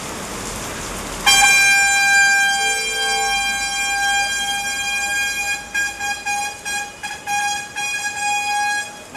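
A vehicle horn sounds loudly about a second in, held as one long steady blast, then breaks into short repeated toots in the second half, with a brief lower-pitched horn sounding once near the start. Rain noise fills the first second.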